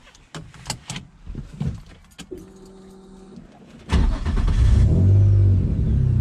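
A few clicks and knocks, then a faint steady hum; about four seconds in, the single-turbo Nissan G35's 3.5-litre V6 cranks, catches and settles into a loud steady idle, started warm rather than cold.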